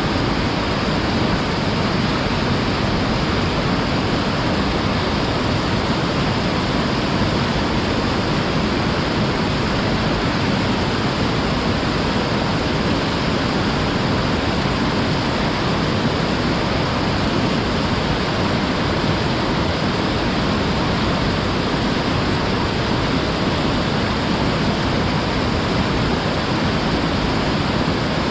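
Waterfall pouring steadily into its pool, a constant loud rush of falling water with no breaks or changes.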